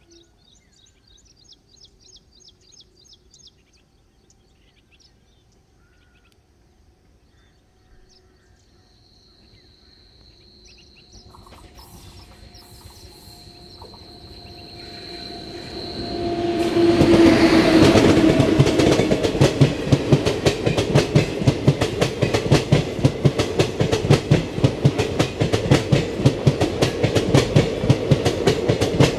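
WAP-7i electric locomotive hauling an express passenger train approaching and passing. A faint steady whine grows louder for several seconds; then, about seventeen seconds in, the locomotive passes and the coaches' wheels clatter rhythmically over the rail joints. Birds chirp faintly near the start.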